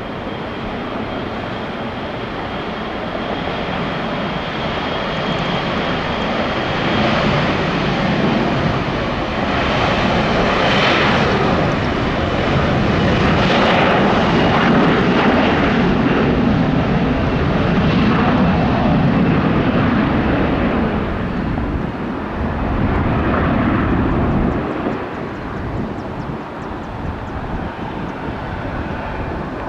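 Boeing 777-200 twin-jet passing on its landing approach: a jet engine rumble with a thin high whine that swells to its loudest about halfway through, then fades away.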